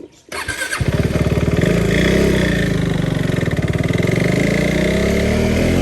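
Motorcycle engine starting up and then running steadily, loud and close to the microphone.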